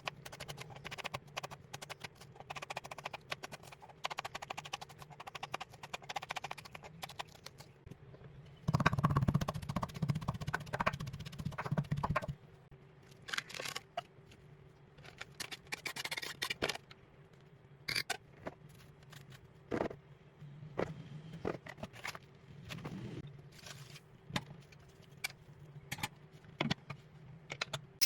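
Kitchen preparation sounds: irregular knocks, taps and clatter of utensils on a wooden board and cookware, with a louder stretch of busy clatter and rustling about nine to twelve seconds in.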